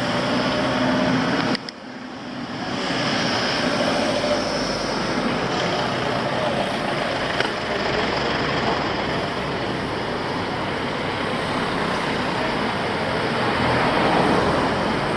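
Steady rushing road noise from riding an e-bike, tyres and air moving past the action camera. It drops out suddenly about a second and a half in and builds back over the next second.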